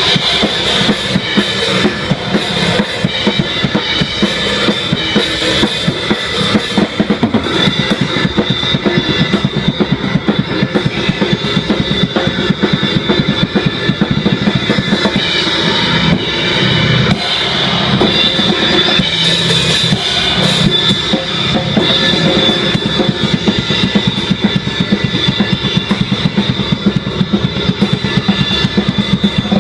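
Live noise band playing: a drum kit pounding out fast hits with cymbals, under a steady wall of distorted noise.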